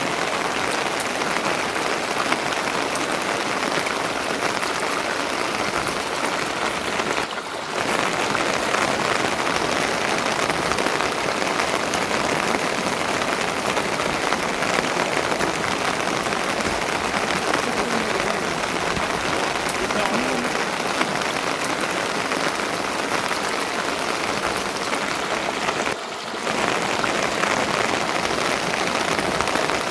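Steady rain falling, a dense even patter that drops away briefly twice.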